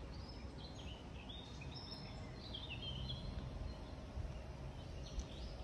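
Small songbirds singing: short, varied chirps and warbling phrases, busiest in the first half, over a low background rumble.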